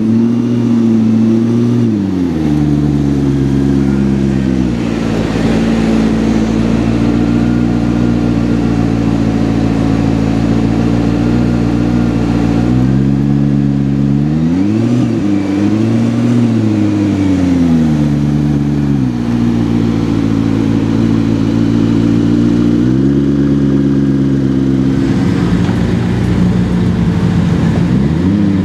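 McLaren P1's twin-turbocharged V8 running at low speed with a steady low note. A few times its pitch climbs and falls quickly as the throttle is blipped: near the start, in the middle, and near the end.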